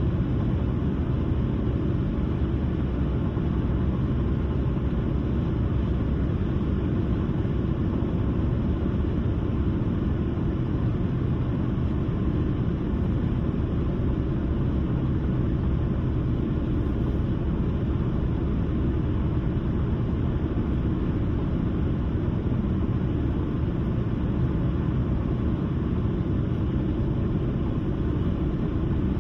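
A car driving at steady speed, with an even low rumble of road and tyre noise that does not change.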